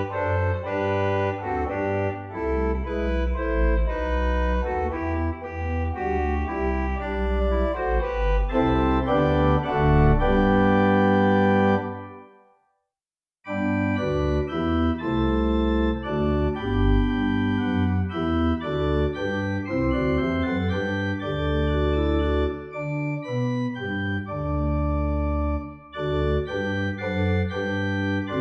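Organ playing a hymn tune in full, held chords. It stops for about a second near the middle, then starts again.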